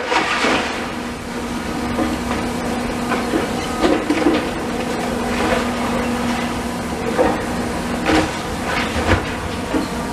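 Heavy demolition machinery at work: a diesel engine runs steadily under irregular clanks, scrapes and crashes of broken material, the loudest of them coming a few seconds apart in the second half.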